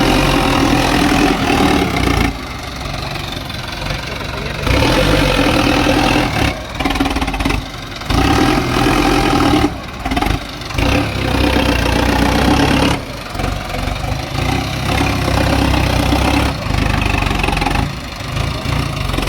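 Sonalika DI 750 tractor's diesel engine running hard under load, surging louder every few seconds and easing back in between, as the stuck tractor strains to pull through soil.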